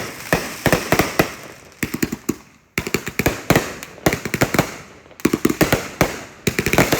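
Consumer fireworks going off: rapid strings of sharp bangs and pops with crackling in between, cut off abruptly several times.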